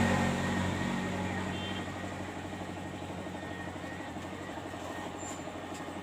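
A motor vehicle goes by and fades away over the first couple of seconds, leaving a steady engine running at a lower level.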